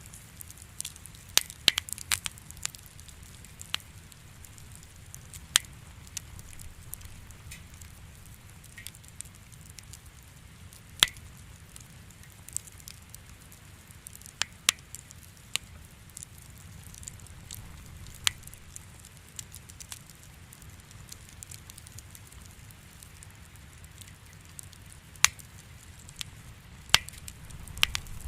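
Wood fire crackling in a fireplace: irregular sharp pops and snaps, a dozen or so louder than the rest, over a low steady rumble.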